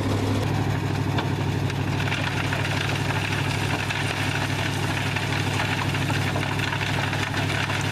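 Vintage dump truck's engine running steadily while its hoist raises the bed to tip a load of gravel. About two seconds in a steady hiss joins the engine hum.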